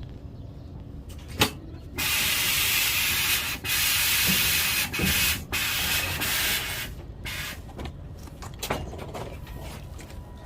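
Loud, even hiss of rushing air or gas from a MAN TGX truck, starting suddenly about two seconds in and lasting about five seconds with a few brief breaks, over a steady low rumble.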